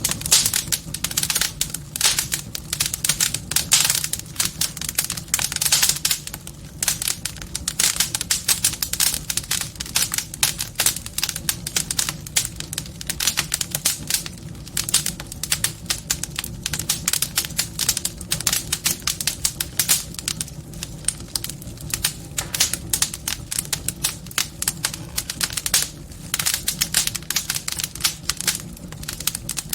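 Wood fire burning in a fireplace, crackling with dense, irregular pops and snaps over a low, steady rumble of the flames.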